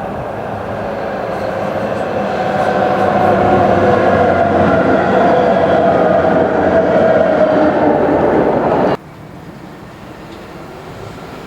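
Train running close by, growing louder over the first few seconds, then a loud steady rumble with a faint whine in it. It cuts off abruptly about nine seconds in, leaving a quieter steady background.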